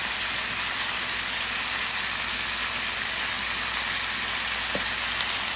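Squirrel meat with sliced Thai eggplant and pea eggplants frying in a hot pan, a steady sizzle.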